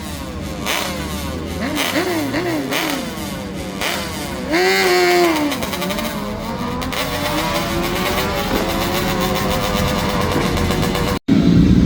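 Motorcycle engines revving in short blips, then one sharp rev about halfway. After that a motorcycle accelerates away, its pitch rising steadily for several seconds. The sound drops out for an instant near the end.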